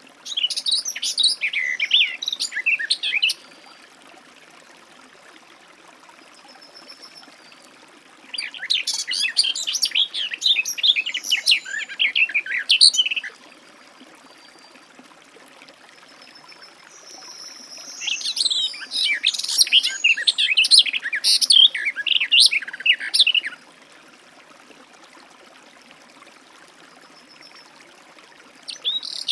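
Garden warbler singing: three long phrases of fast, rich warbling, each lasting three to six seconds, separated by pauses of about five seconds. Faint, thin high notes come in the pauses.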